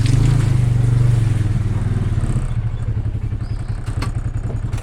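An engine running with a steady low pulsing, growing quieter over the last couple of seconds.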